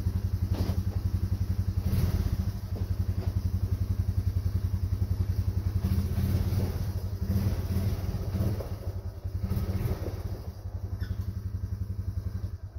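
A vehicle engine idling with a rapid, even pulse, then switched off near the end.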